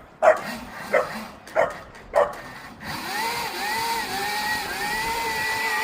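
A dog barks four times in quick succession. About three seconds in, a steady high electric whine starts and wavers slightly up and down: the hub motor of a Gecko Mini 1.4 electric kids' dirt bike running under throttle.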